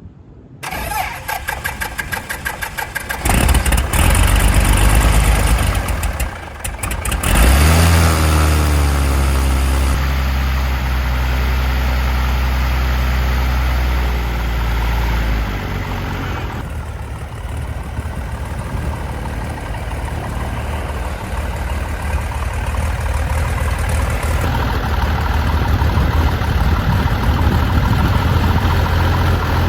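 Propeller aircraft engine started for the first time on its airframe: the starter cranks for about three seconds, the engine catches, falters briefly around six seconds, picks up again with a rise in pitch, then runs steadily, dropping to a lower, settled running speed about sixteen seconds in.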